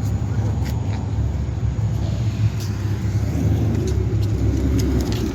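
Steady low rumble of a car engine.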